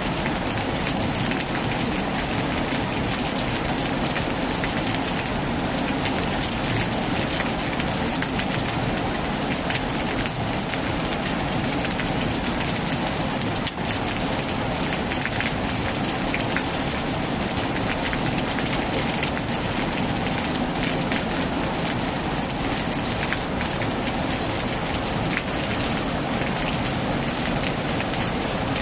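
Heavy rain falling steadily, a dense even hiss with many fine drop impacts and no thunder.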